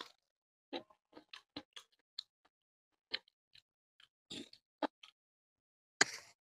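Close-up eating sounds of a man eating fish curry and rice by hand: a run of short, separate wet chewing smacks and clicks, with a longer, louder burst near the end.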